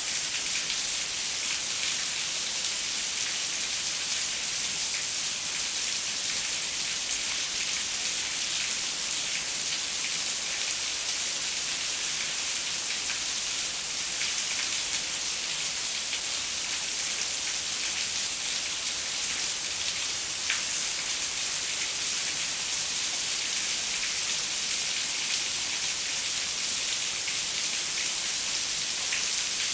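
Steady rain falling on a window, an even hiss of many fine drop patters.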